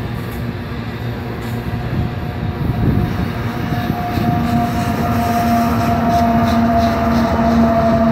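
A slow-moving CN freight train's covered hopper cars rolling past with a steady rumble. From about four seconds in, the steady drone of a CN diesel locomotive's engine joins in and grows louder as the locomotive nears.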